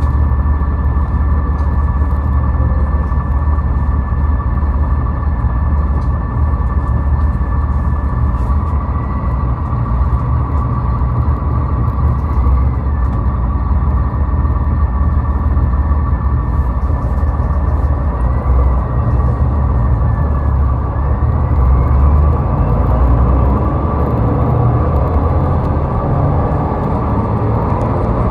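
Steady low road rumble of highway car traffic, with a faint steady whine over it that wavers slightly in pitch partway through.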